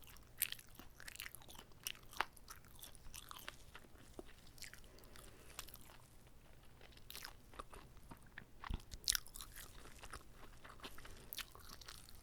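Close-miked eating sounds of a person biting and chewing a whole, uncut kimbap roll: a string of irregular mouth clicks, with a louder cluster about nine seconds in.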